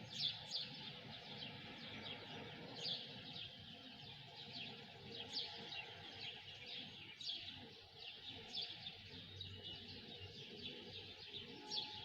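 Several small birds chirping and twittering together, with many short, quick, falling chirps overlapping throughout.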